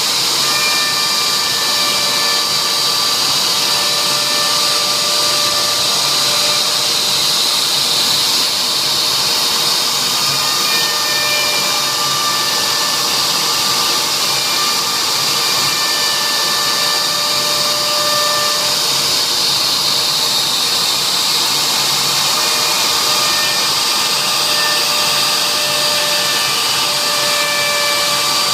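CNC router running steadily as it engraves a signature board: a spindle's high whine and hiss, with thinner motor tones that start, stop and change pitch every few seconds as the machine moves along its path.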